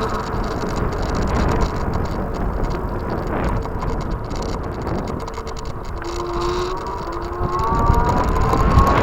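Wind buffeting the microphone and tyre noise during an e-bike ride, with a thin whine that rises in pitch over the last second or two.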